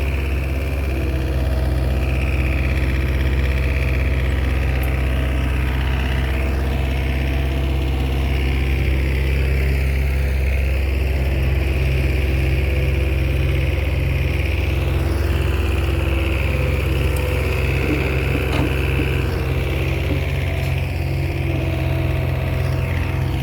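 Komatsu bulldozer's diesel engine running steadily, with a higher whine that comes and goes.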